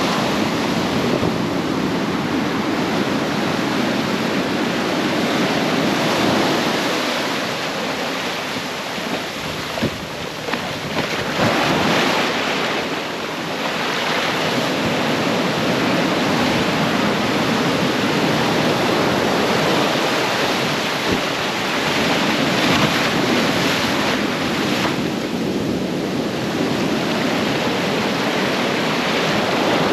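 Ocean surf: a steady wash of waves, with louder swells as waves break about a third of the way in and again past two-thirds.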